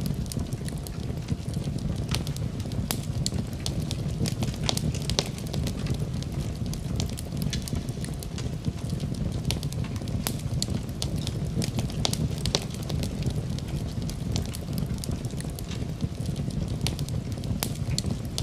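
Wood fire crackling in a fireplace: a steady low rumble of burning with frequent sharp crackles and occasional louder pops at irregular moments.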